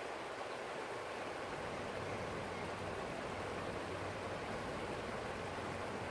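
Forest stream flowing over stones, a steady rushing and burbling of water.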